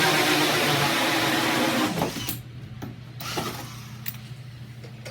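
Electric drill driving a hole saw into a door's deadbolt bore, stopping about two seconds in. A few light knocks follow over a steady low hum.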